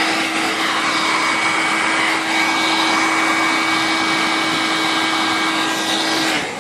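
Electric heat gun running steadily, blowing hot air with a constant hiss and hum. It switches off abruptly near the end.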